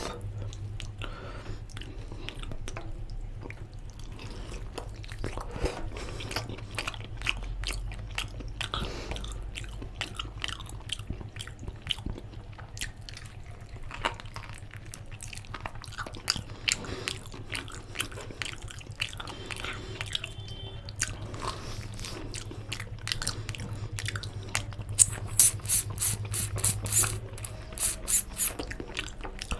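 Close-up mouth sounds of a person eating mutton bone-marrow curry with rice: wet chewing, smacking and sucking clicks throughout, with a quick run of loud, sharp smacks near the end, over a steady low hum.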